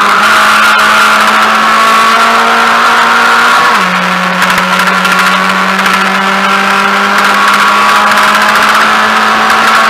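Mazda MX-5 race car's four-cylinder engine heard from inside the cockpit, running hard under load. About four seconds in the revs drop sharply in an upshift, then climb steadily again as the car accelerates.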